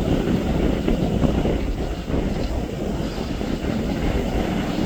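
Wind buffeting the microphone over the steady rumble of rough surf, a dense low noise with no clear pitch.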